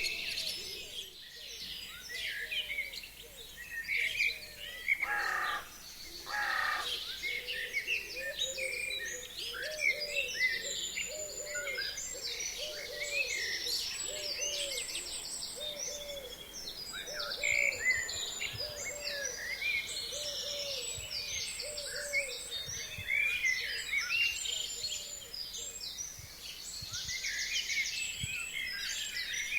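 Chorus of forest birds singing in early spring: many overlapping chirps and high trills, with a low, hooting note repeated about once a second through the middle.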